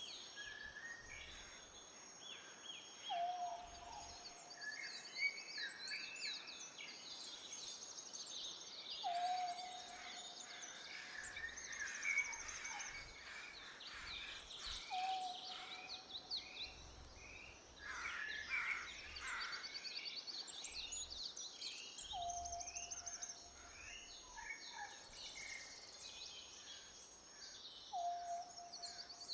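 Birdsong: many small birds chirping and trilling together, with a lower whistled call that comes back about every six seconds.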